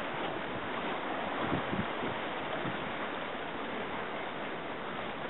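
Steady wash of sea water with wind on the microphone, and a few soft low knocks about a second and a half in.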